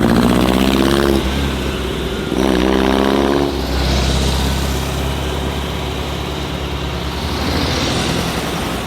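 Old car engines running and passing close by over a steady low rumble. Two pitched engine notes swell in the first few seconds, then two more vehicles pass, about four and eight seconds in.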